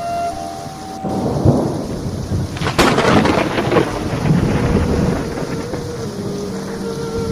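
Thunderstorm: thunder rumbling from about a second in, with a sharp crack about three seconds in, over rain.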